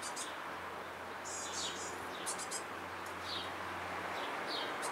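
Great tits calling: short, high chirps and quick downward-sliding notes repeating irregularly over a steady background hiss.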